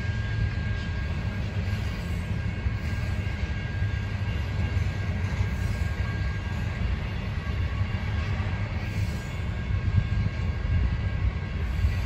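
A train rolling past with a steady low rumble.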